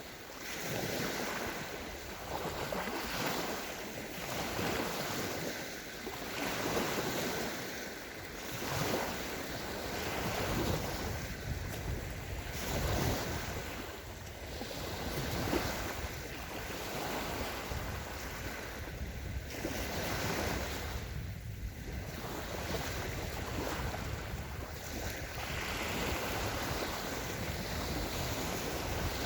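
Small waves of the Sea of Azov breaking and washing onto a sandy beach, swelling and falling back about every two seconds, with wind rumbling on the microphone.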